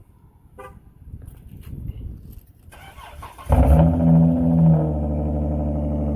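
Dodge Journey engine cold-started: the starter cranks briefly, the engine catches about three and a half seconds in, flares up and settles to a steady fast idle.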